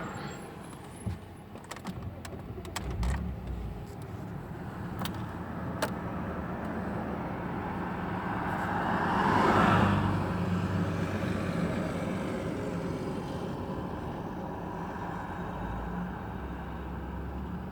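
Audi 2.8 FSI V6 engine running at low revs with a steady low hum, a few sharp clicks in the first seconds and a louder swell of noise about halfway through. The owner reports a knock from the middle of the right cylinder head, with the engine shaking at about 1100 rpm and stalling.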